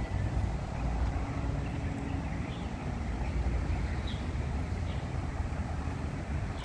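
A steady low rumble with uneven buffeting, like wind on the microphone outdoors, and a few faint short high chirps.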